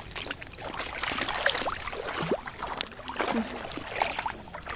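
Shallow river water splashing and gurgling as feet are washed in it, with many small splashes and bubbling chirps.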